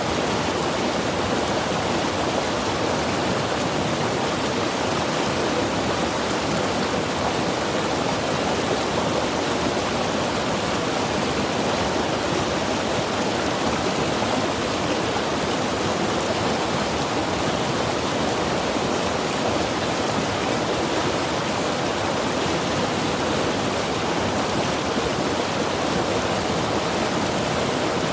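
Mountain river rushing over rocks, a steady, unbroken water noise.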